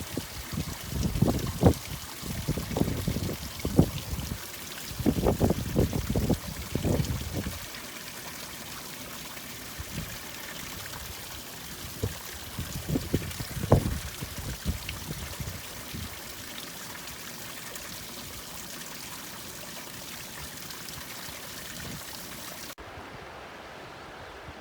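River water rushing over a small waterfall, a steady hiss. Strong low buffeting, like wind on the microphone, covers the first seven or so seconds and comes back briefly around 13 seconds in, and the sound turns duller about a second before the end.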